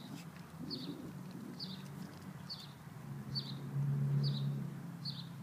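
A bird repeats a short downward chirp about once a second over a low rumble, which swells to its loudest a little past the middle and then eases off.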